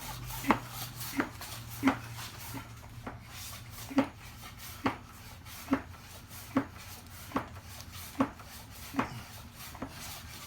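Hand-operated oil extractor pump being worked, a short sharp stroke roughly every 0.8 seconds, sucking engine oil up out of the dipstick tube.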